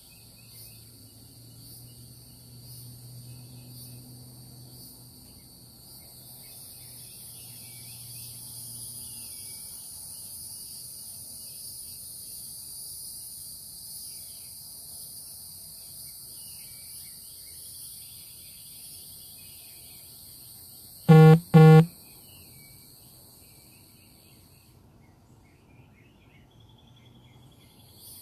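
Steady high-pitched chorus of insects at dawn, with scattered faint bird chirps. About 21 seconds in, two short, loud horn-like beeps sound in quick succession.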